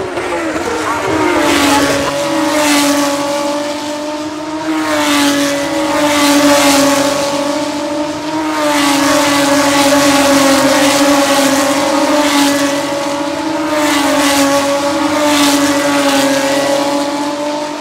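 GP3 Series Dallara race cars' V6 engines running at high revs as a stream of cars passes one after another. A steady, loud engine note holds throughout, with a whoosh every second or two as each car goes by.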